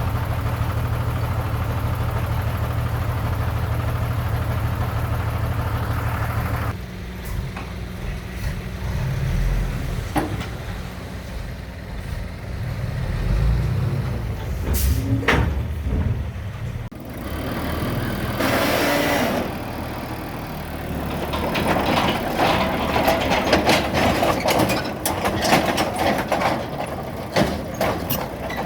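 Diesel engines of heavy construction machinery. A steady engine drone changes abruptly about seven seconds in to an uneven engine sound with a few sharp knocks and a brief hiss. In the last third come dense metallic rattling and clattering.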